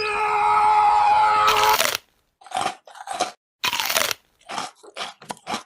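A steady held tone for about two seconds, then a quick run of about eight separate loud crunches as crunchy food is bitten and chewed.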